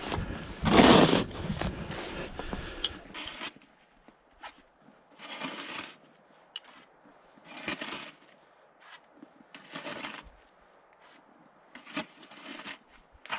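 Snow shovel scraping and crunching through packed snow in separate strokes. The strokes are loudest about a second in, then come more softly every couple of seconds.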